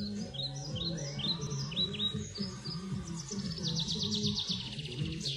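Small songbird chirping: a string of short falling chirps, then a fast trill near the end.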